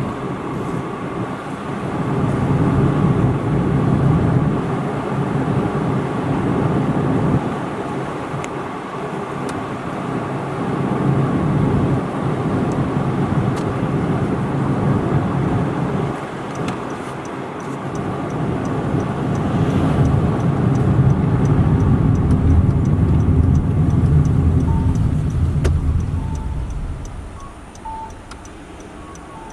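Car driving, its road and engine noise rising and falling with speed. Near the end it slows and goes quieter, and a soft beep repeats about every second and a half.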